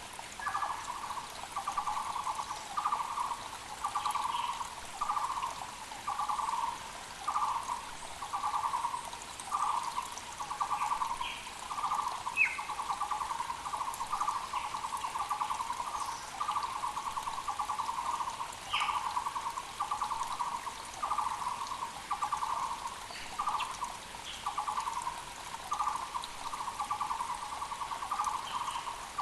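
Taiwan barbet (Müller's barbet) calling on and on: a long run of short, rapidly trilled notes, about one to two a second. A mountain creek flows steadily underneath, and a few other small birds chirp briefly.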